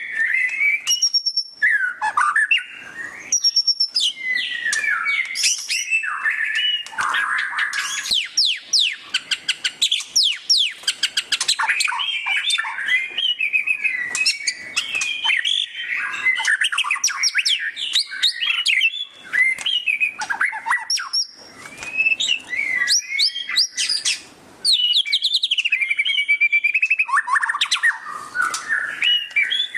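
White-rumped shama (murai batu) singing continuously: a varied, loud song of whistled phrases and fast chattering trills. About seven seconds in it breaks into a long run of rapid repeated notes, the 'ngeriwik' rattle.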